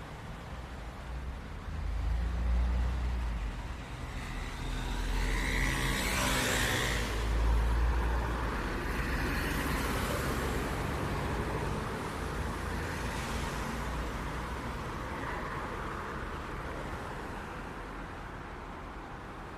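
City street traffic: cars going by one after another over a steady low rumble, the loudest pass about seven seconds in, with the traffic easing off toward the end.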